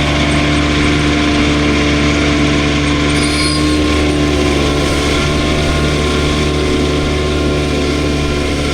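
Case IH Maxxum 150 tractor running steadily under load, driving a Case IH DC133 discbine mower-conditioner through standing alfalfa. It is a loud, even drone of engine and cutter drive that holds at one pitch.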